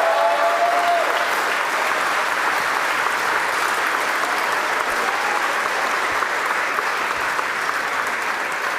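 Crowd applauding steadily, with a shout near the start.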